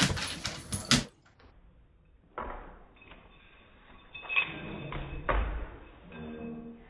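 Dogs scuffling at play with sharp clicks, cutting off about a second in. It gives way to slowed-down slow-motion audio: deep, drawn-out rumbles and thuds, and near the end low, stretched pitched sounds like a slowed growl or voice.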